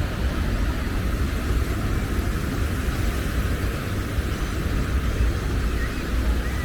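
Steady low rumble and hiss of wind buffeting the microphone over breaking surf, with no clear single event.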